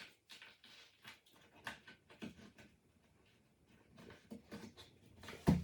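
Faint, scattered clicks and knocks as the plastic feet are pushed by hand into the base of an IKEA Kullen chest of drawers.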